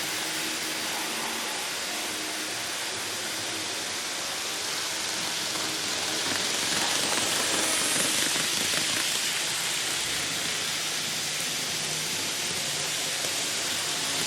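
Model train running on a layout's track, a steady hissing rolling noise that swells for a few seconds in the middle as the train passes closer.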